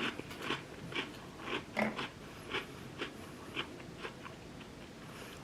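Crisp gingerbread cookie being chewed, crunching about twice a second, stopping about four seconds in.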